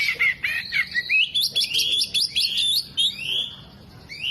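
Caged Oriental magpie-robin (kacer) singing a loud, fast, varied song of chirps and whistled notes that sweep up and down, with mimicked calls of other birds worked in. The song eases off briefly about three and a half seconds in.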